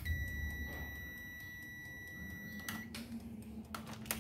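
A steady high-pitched electronic beep held for nearly three seconds, then stopping, followed by a few light clicks.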